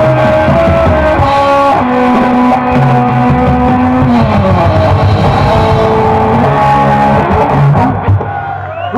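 Live rock band playing, with electric guitars over bass and drums; about eight seconds in the full band cuts to a last hit that is left ringing.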